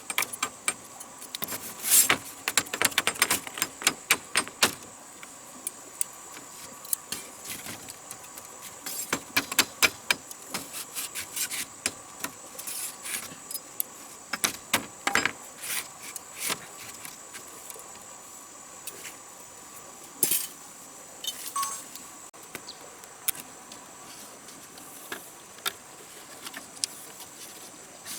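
Irregular light clicks and knocks from handling hard objects, thickest in the first few seconds and again in the middle, over a steady high-pitched insect drone.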